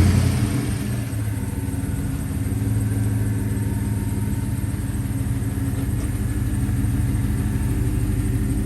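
2013 GMC Sierra Denali's 6.2-litre V8, just remote-started, briefly loudest at first and then settling within about a second into a steady idle. It runs through dual Flowmaster 40 series mufflers.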